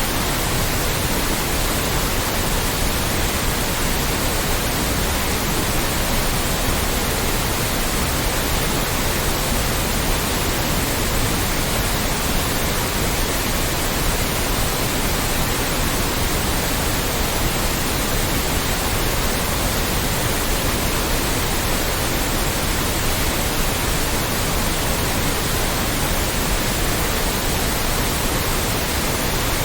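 Loud, steady white noise: an even, unchanging hiss with no pitch or rhythm.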